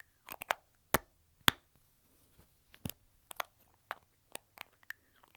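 Lipstick tubes handled close to the microphone: a string of about a dozen sharp, irregular clicks and taps of the tube and its cap, the loudest about one and a half seconds in.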